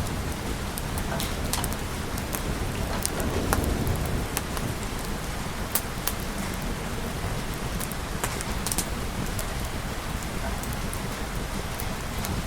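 Steady rain falling on a surface, a continuous hiss with scattered sharp ticks of drops. A low rumble swells briefly about three to four seconds in.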